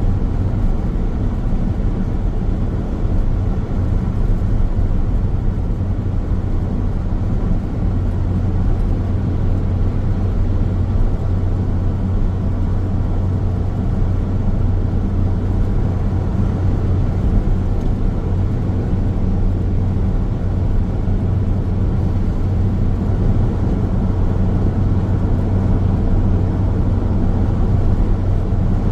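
Steady road noise of a car in motion: a constant low drone of tyres on the road and engine, with no changes or separate events.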